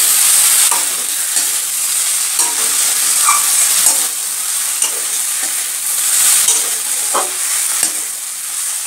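Chopped snake gourd frying with a steady sizzle in a metal kadai while a metal spatula stirs it, scraping against the pan every second or so. The gourd's water has cooked off and it is now being stir-fried dry.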